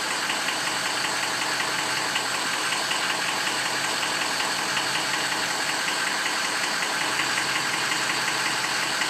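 Ford 6.0L Power Stroke V8 diesel idling cold with a steady, rapid clatter. Cylinders 1, 2 and 7 are not picking up their share on the power balance test.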